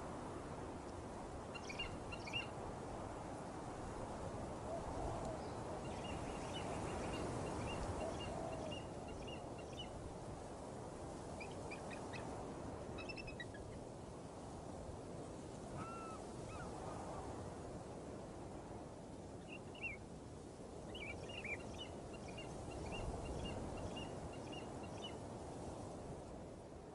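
Outdoor ambience: a steady, rushing background with faint, scattered bird chirps and a few short, rapid trills.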